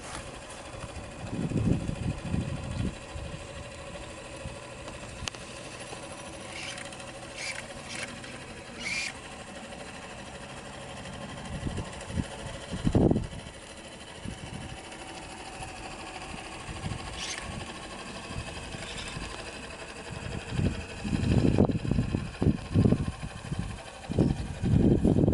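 Homemade single-cylinder double-acting steam engine driving a boat's outboard, running steadily. Loud low rumbles come and go a couple of seconds in, about halfway, and often near the end.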